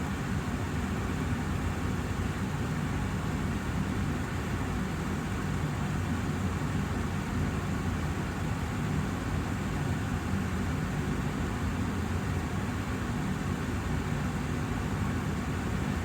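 Austin Air HealthMate air purifier's fan running steadily: an even rush of air over a low hum, unchanging throughout.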